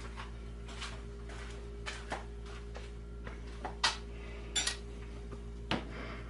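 Light metallic clicks and clinks of measuring tools being handled against a steel workpiece, about six in all, the loudest about four seconds in, over a steady low hum in the shop.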